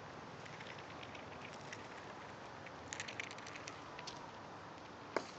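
Chipmunk cracking and nibbling seeds: scattered faint crackly clicks with a denser cluster about three seconds in, over a steady hiss. A single sharp click near the end.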